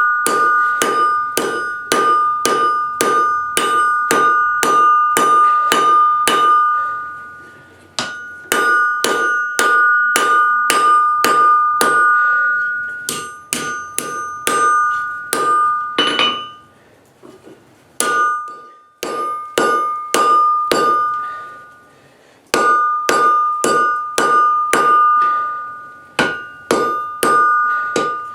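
Hammer blows on an anvil as a piece of crowbar steel is forged, about three strikes a second in runs of several seconds with short pauses between. Each blow leaves a clear ringing from the anvil.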